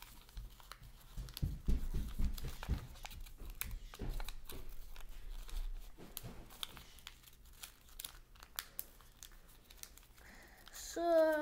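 A sheet of origami paper being folded and creased by hand: crisp crinkling and rustling with small clicks, and a few dull thumps about two seconds in.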